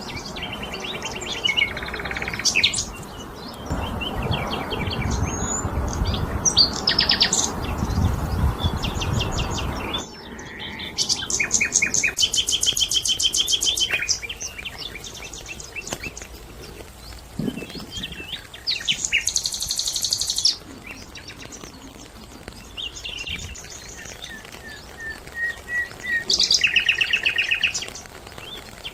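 Several wild birds calling and singing, with short chirps and fast rapid trills, the loudest trills about halfway through and near the end. A low rushing noise sits under the calls for the first third and stops suddenly.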